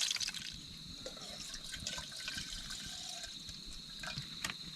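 An insect trilling one steady high note, with a few faint clicks and ticks. A hissing, watery noise fades out in the first half second.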